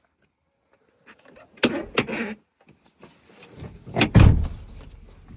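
Car door handled: two sharp clunks with some rattling, then a loud clunk and a heavy low thud of the door being shut, about four seconds in.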